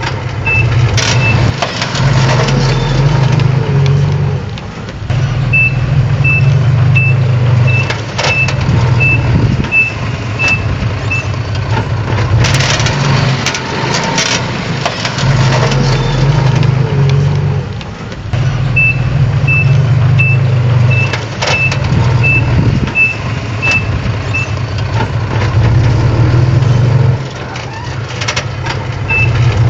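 Bulldozer's diesel engine working under changing load, rising and falling, with occasional knocks. Its reversing alarm beeps in two runs of about nine even beeps, roughly one and a half a second, as the machine backs up.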